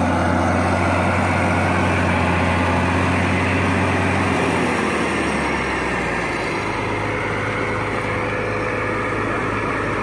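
Heavy diesel machinery engine running under load as a stuck tractor is pushed out by a bulldozer, a steady low drone whose note changes about halfway through.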